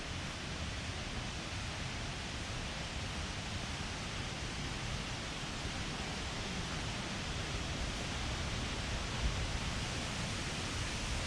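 Steady rush of a waterfall, an even hiss of falling water, with a low flickering rumble of wind on the microphone and a brief low bump about nine seconds in.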